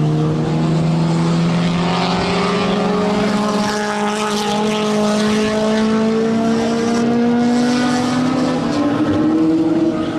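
Race car engine accelerating, its note climbing slowly and steadily; near the end the pitch steps up to a higher note.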